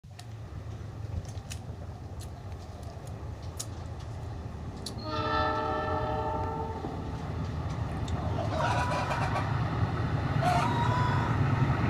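KAI CC206 diesel locomotive approaching, its low engine rumble growing louder throughout, sounding its horn once about five seconds in for roughly two seconds.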